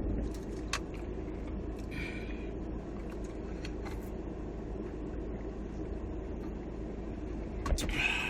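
Steady low rumble of a running engine, with a few faint clicks over it.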